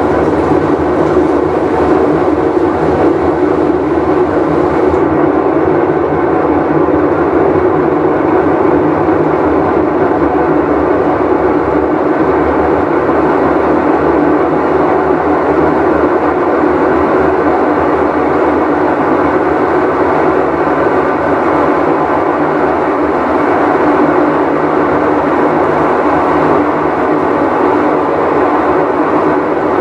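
Whirlpool Cabrio top-load washing machine running with a loud, steady rumble as the tub turns, the sign of a failing tub bearing.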